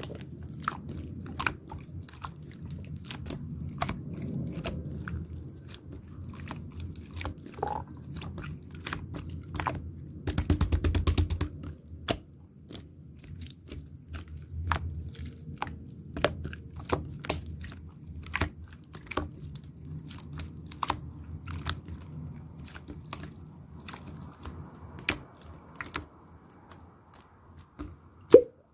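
Slime being played with by hand, giving a steady run of sharp wet clicks and pops. About ten seconds in comes a fast, loud burst of clicks, and there is a single loud pop near the end.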